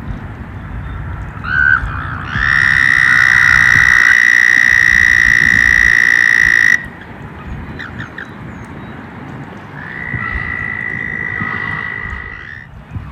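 A frog calling with a long, steady high trill that lasts about four seconds and cuts off sharply, followed near the end by a second, quieter trill, over a low background rumble.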